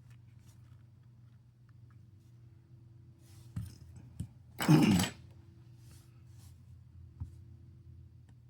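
Faint small clicks of a pry tool working at a smartphone's internal parts against a steady low hum, with one louder short rush of noise about halfway through.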